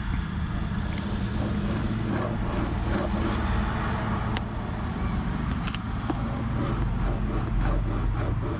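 A pen scratching on paper in short strokes as it runs dry, with a few sharp clicks about halfway through, over a steady low rumble.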